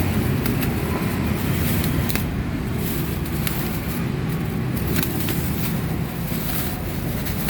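A steady low motor rumble, with scattered light clicks and knocks as packaging and parts are handled.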